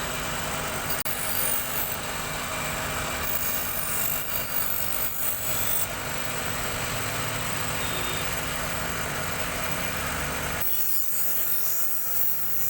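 Knife blade being ground on a motor-driven sharpening wheel: a steady grinding hiss over the machine's hum. About ten and a half seconds in the grinding stops and the machine's hum runs on alone.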